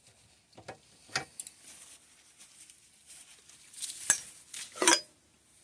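Small metal suspension-fork parts clinking and tapping as they are handled: a few light clicks in the first second and a half, then two sharper, ringing clinks about four and five seconds in.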